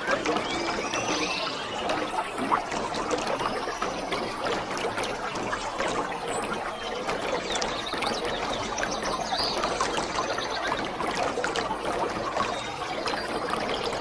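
Waterfall: a steady, dense rush of falling and splashing water with no break.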